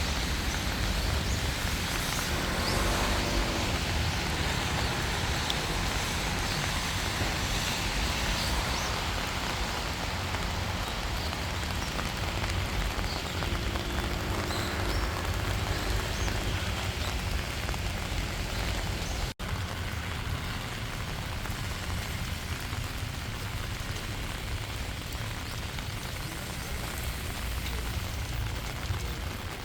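Steady rain falling in a park, an even hiss of drops with a low rumble underneath. The sound cuts out for a split second about two-thirds of the way through.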